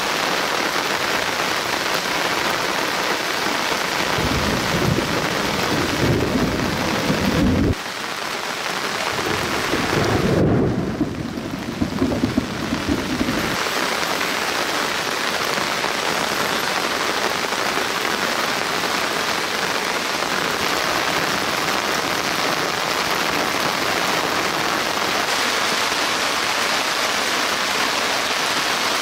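Steady heavy rain hissing throughout, with thunder rumbling twice: a long roll that cuts off suddenly about 8 seconds in, and a second rumble a couple of seconds later that fades out.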